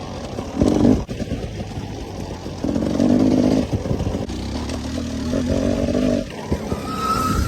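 Dirt bike engine revving up in repeated bursts of about a second each as the throttle is opened and closed on a trail, with some clattering in between.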